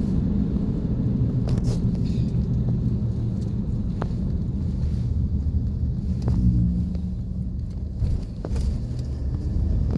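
Road noise inside a moving car: a steady low rumble of engine and tyres, with a few faint ticks.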